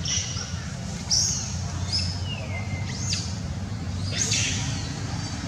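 Birds chirping several short times, one call gliding down in pitch and another sweeping up, over a steady low hum.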